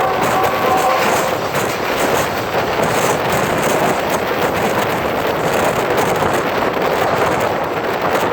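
A passenger train rolling past at speed: a loud, steady rush and clatter of wheels on the rails with wind buffeting the microphone. The horn's chord trails off about a second in.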